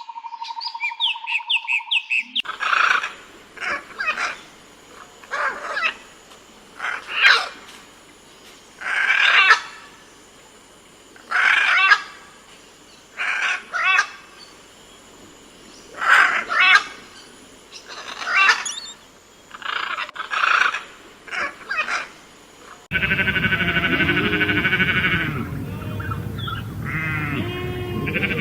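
An animal's short chirping calls, repeated every one to two seconds. About 23 seconds in they cut off abruptly to a different, denser sound with many stacked tones.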